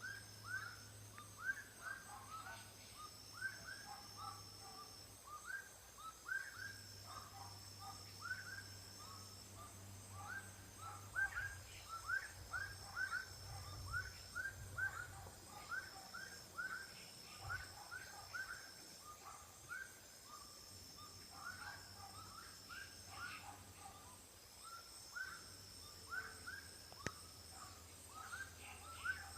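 Outdoor natural soundscape: many short chirping calls, repeated in quick runs throughout, over a high, thin insect trill that runs in stretches of a couple of seconds with brief gaps.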